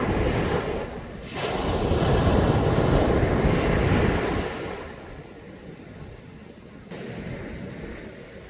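Caribbean sea waves breaking on a beach: a wave surges in a little over a second in and stays loud for about three seconds, then eases back to a softer hiss of surf.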